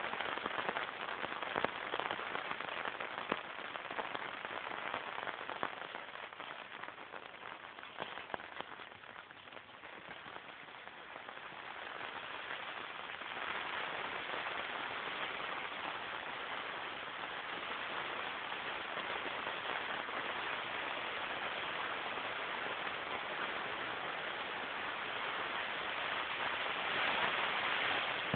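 Hard rain falling on a Cabela's Alaknak tent, heard from inside: a steady patter with scattered louder drops, easing a little about ten seconds in, then building again.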